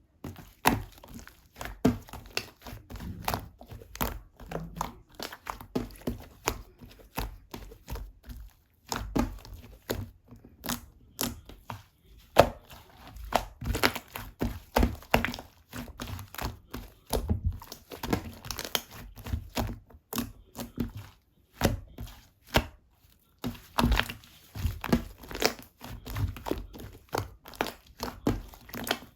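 White slime being squished and pressed by hand, making irregular wet clicks and pops several times a second.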